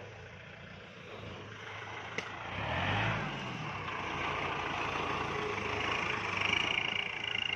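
Tractor diesel engine running, revving up about three seconds in and then running harder under load as it works to get a tractor stuck in mud free; a short click comes just before the rev and a steady high whine joins near the end.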